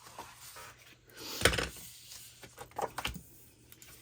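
Handling noises on a work table: a loud knock about one and a half seconds in, then a few smaller taps and clicks near the end.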